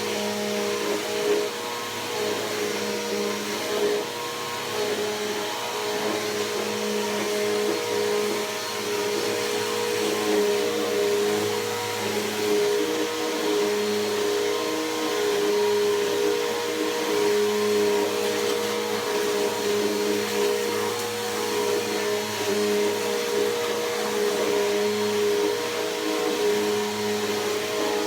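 Bissell PowerForce Helix Turbo upright vacuum cleaner running continuously, with a steady motor hum and whine over rushing air that swells and eases slightly every few seconds.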